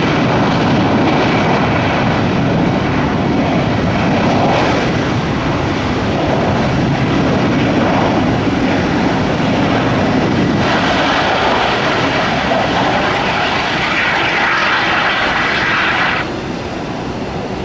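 Jet airliner engines, loud and steady. About eleven seconds in, a higher hiss joins, and it cuts off abruptly shortly before the end.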